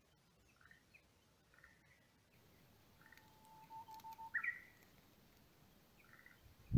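Wild birds calling faintly: short chirps about once a second, one long steady whistled note about three seconds in, then a louder call that rises and falls just after it.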